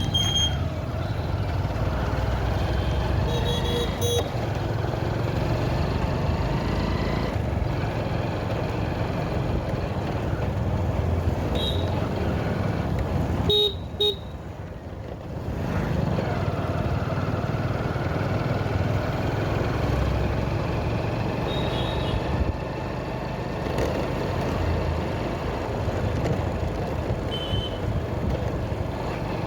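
Motorcycle riding on a road: steady engine and wind noise, with several short horn toots spread through. Midway the sound drops away for about two seconds before picking up again.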